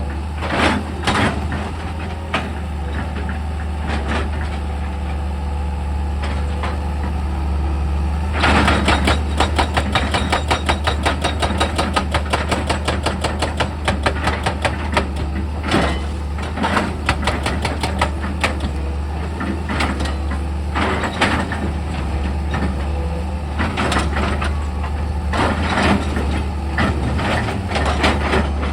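Excavator's heavy diesel engine running steadily, with clanking and knocking of metal and rock; the knocks come thick and fast from about eight seconds in, then more scattered.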